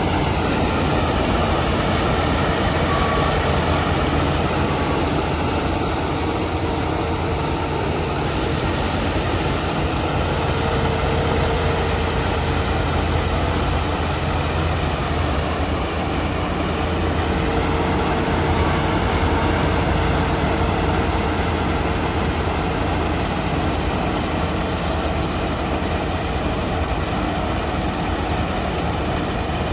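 A 110 hp combine harvester running steadily with its Quanchai diesel engine: an unbroken, even machine noise with a low hum under it.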